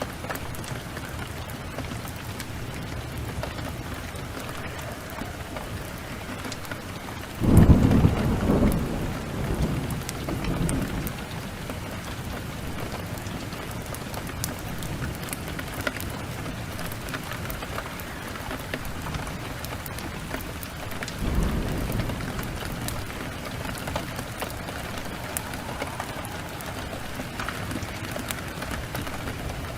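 Steady rain falling, with a sudden loud clap of thunder about seven seconds in that rumbles away over a few seconds, and a softer roll of thunder about twenty-one seconds in.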